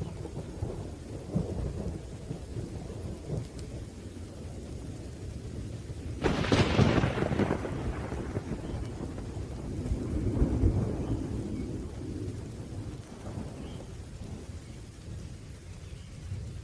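Thunderstorm: a steady low rumble of thunder over rain, broken about six seconds in by a sharp, loud thunderclap that rolls away over a couple of seconds, with another swell of rumbling a few seconds later.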